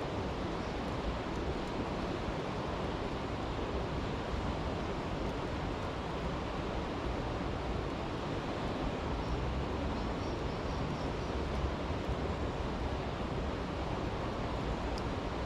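Steady rushing of a brook's flowing water, with a few faint crackles from a campfire, one near the end.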